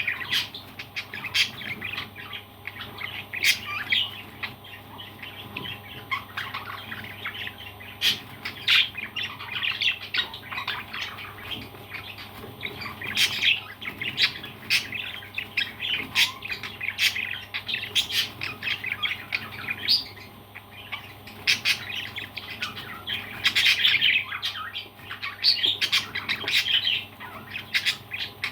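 Parrots chirping and squawking in quick, busy calls, with sharp clicks among them.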